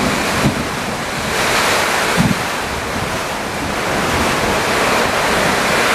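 Strong summer-storm wind gusting with rain, surging louder and easing off, and the wind buffeting the microphone with low rumbles and a couple of brief thumps.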